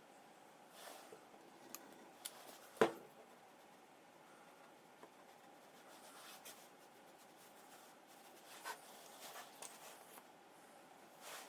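Faint handling sounds of wooden workpieces: scattered small knocks and rubs, the loudest knock about three seconds in, over quiet room tone.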